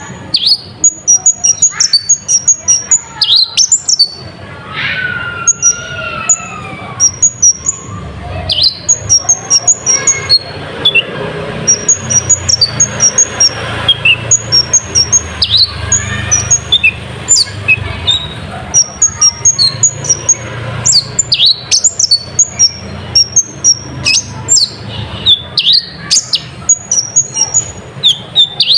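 Kolibri ninja sunbird song: quick, high chirping and twittering notes repeating in dense runs, with a few longer whistles that glide down about five seconds in. A steady low hum runs underneath.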